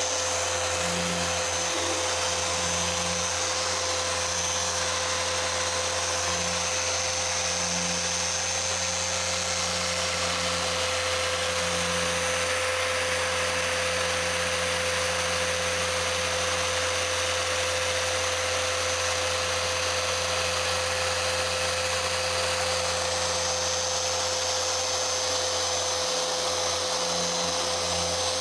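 Electric machine polisher running steadily against car paint during paint correction: an even motor whine with a constant hum and a hiss from the pad on the paint.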